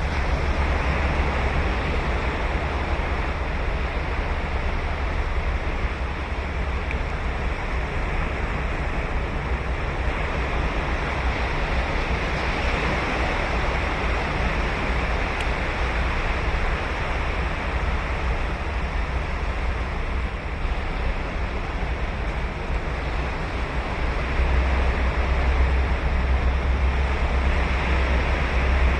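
Ocean surf breaking and washing on a sandy beach, a steady rush with a deep rumble that swells again near the end, with wind buffeting the microphone.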